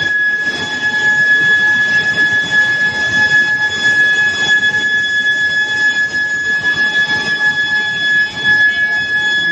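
Induction reheating furnace for square steel bar giving a steady high-pitched whine from its heating coils, over a rough, noisy background of the running production line.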